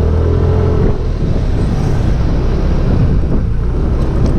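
Yamaha Aerox 155 scooter's single-cylinder engine running while riding, under a heavy, steady rumble of wind buffeting a helmet-mounted GoPro Hero 5 that has no external mic. A faint engine note rises slightly in the first second.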